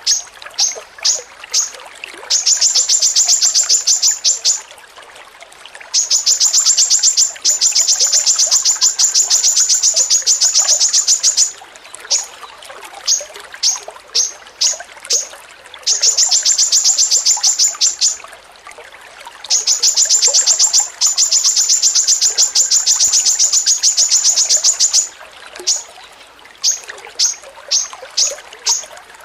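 A songbird repeating a high, dry ticking note: a few spaced ticks that break into a fast, even rattle lasting two to five seconds, four times over.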